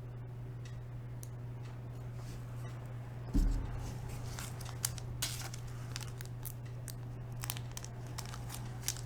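Trading cards and plastic card holders being handled: light crinkling, rustling and small clicks, with a dull bump a little over three seconds in, over a steady low hum.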